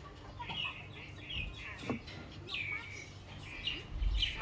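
Small birds chirping: a string of short, high chirps, each falling in pitch, a few every second.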